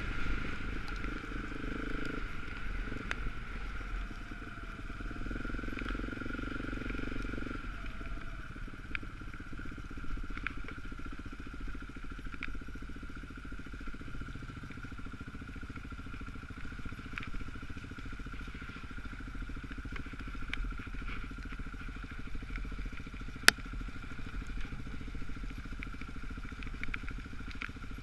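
Dirt bike engine running at steady, low revs while riding, with scattered small clicks and one sharp knock late on.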